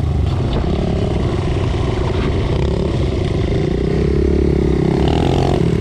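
Small single-cylinder pit bike engine running under way, its note climbing a little about four seconds in as the rider accelerates.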